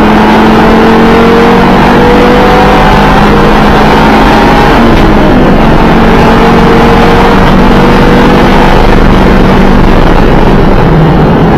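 2012 Audi TT RS's turbocharged five-cylinder engine running hard under racing load, its revs climbing, dropping briefly about five seconds in, then climbing again, over loud road and wind noise.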